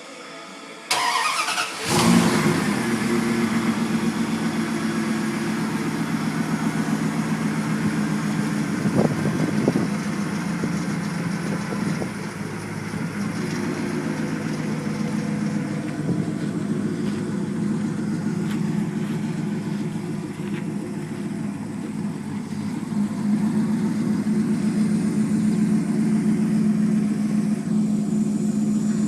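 1999 Dodge Ram's 318 (5.2 L) V8 breathing through a Borla exhaust: cranked briefly by the starter, catching about two seconds in, then idling steadily.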